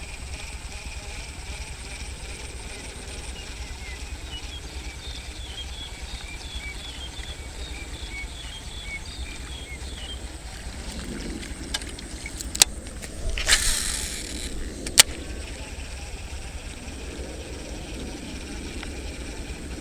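Strong wind buffeting the microphone in a steady low rumble, with faint high chirps in the first half. About two-thirds of the way through come a few sharp clicks and a brief hiss, the loudest moments.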